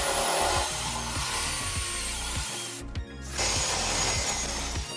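A tool sawing through wood, in two stretches with a short break about three seconds in.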